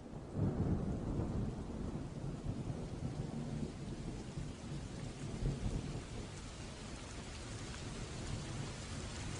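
Steady rain with a low rumble of thunder, loudest about half a second in and fading over the next few seconds; the hiss of the rain grows brighter toward the end.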